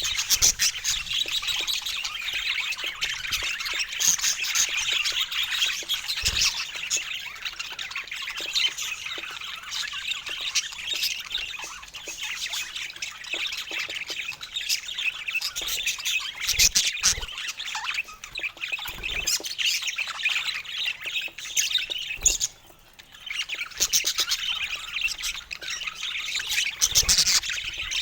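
A flock of pet budgies chirping and chattering continuously, many birds calling at once, with a short lull about three-quarters of the way through.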